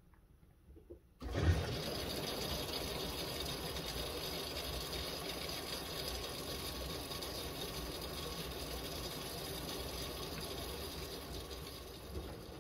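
Miele W1 washing machine: after near silence, a steady rush of water starts suddenly about a second in and runs on evenly over a low rumble, the sound of the machine taking in water.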